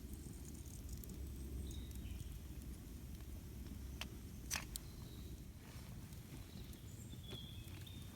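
Campfire burning with a steady low rumble and a few sharp crackles and pops, the loudest about halfway through. Faint short high chirps of birds come and go.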